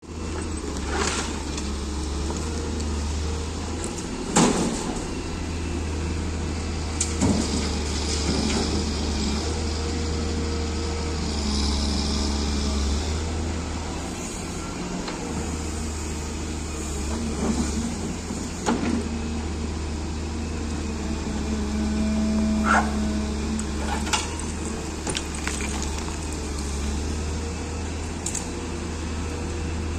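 Diesel engine of a Cat M318 wheeled excavator running steadily as it loads soil into a truck, with sharp clanks and knocks every few seconds from the bucket and the loading.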